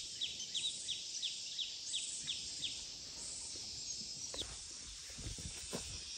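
A bird calling a quick run of short falling chirps, about three a second, that stops about halfway through, with one more chirp later, over a steady high drone of insects. Soft low thumps come in the second half.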